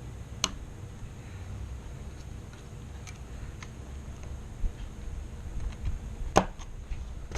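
Two sharp clicks about six seconds apart, with a few faint ticks between them, from the parts of a Colt AR-15 rifle being handled during stripping and cleaning.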